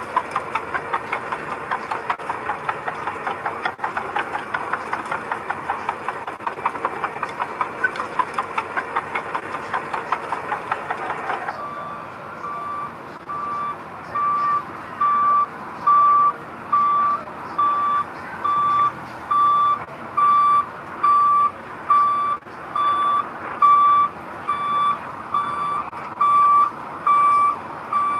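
A heavy diesel machine's engine running with a fast, even clatter for the first half. It then switches abruptly to a reversing alarm beeping steadily, a little more than once a second, over the engine as the machine backs up.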